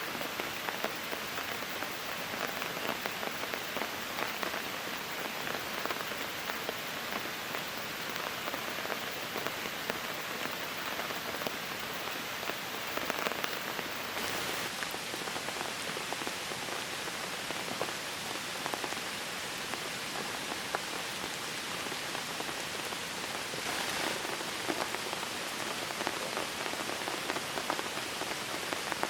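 Steady rain falling, an even hiss dotted with the ticks of many single drops striking a surface.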